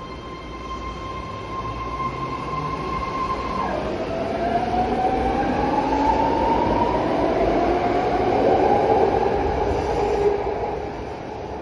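BART Legacy Fleet train accelerating away from the platform. A steady whine drops in pitch about four seconds in, then climbs as the train picks up speed over the rumble of the wheels. The sound grows louder and then fades as the train leaves.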